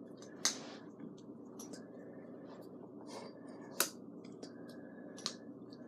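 Scattered sharp clicks and light taps of metal scooter parts being handled while the handlebar clamp is fitted, the loudest a single click about four seconds in.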